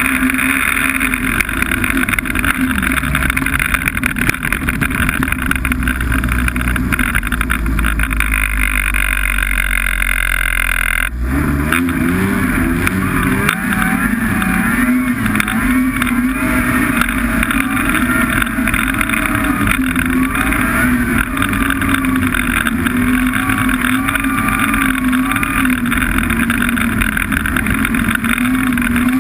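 Snowmobile engine running steadily while riding. About eleven seconds in the sound breaks off for an instant, then the engine note wavers up and down as the throttle changes.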